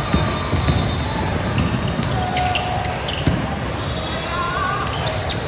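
A basketball being dribbled on an indoor court during a game, with repeated thuds of the ball on the floor and voices in the background.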